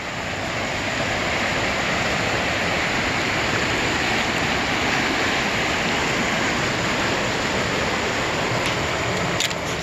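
Steady rush of a waterfall, an even wash of falling water that holds level throughout, with a couple of faint clicks near the end.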